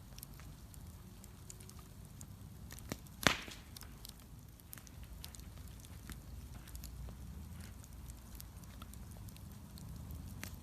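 Wood fire crackling with scattered small clicks over a low steady rumble, and one loud, sharp pop about three seconds in.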